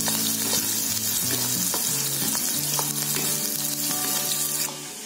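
Chopped onion, green chillies, curry leaves and dals sizzling in hot ghee and oil in a kadhai, with a wooden spoon stirring and scraping the pan. The sizzle drops away near the end.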